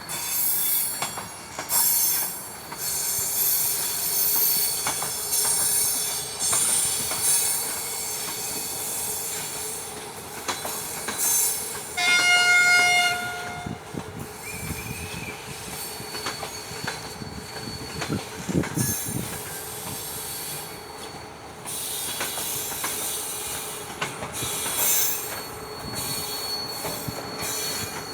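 Railway train moving through a station, its wheels squealing on the rails throughout. About twelve seconds in, a locomotive horn sounds one blast of under two seconds.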